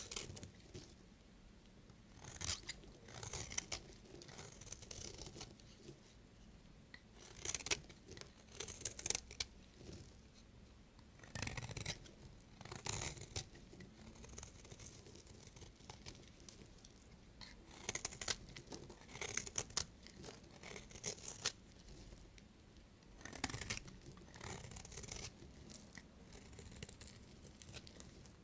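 Knife cutting through bars of soap: short crackling, scraping cuts that come in groups every couple of seconds.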